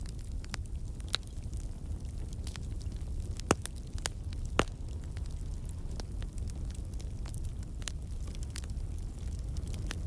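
Wood campfire burning with a steady low rumble and scattered sharp crackles and pops from the logs, two louder pops about three and a half and four and a half seconds in. The crackling comes from water and sap in the wood turning to steam and escaping.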